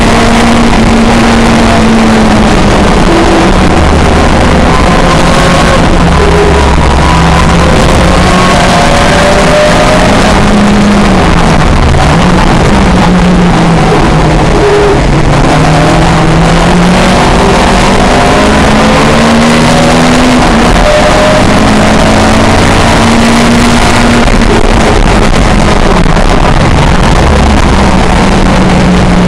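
A pre-1966 touring car's engine running hard at racing speed, its pitch rising and falling as the revs change through gears and corners, over heavy wind and road noise.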